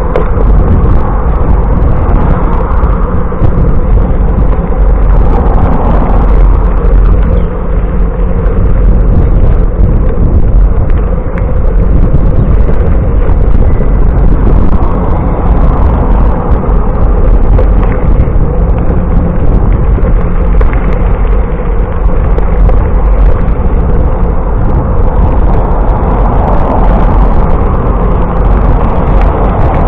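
Loud, steady wind rumble buffeting the microphone of a camera carried on a moving bicycle.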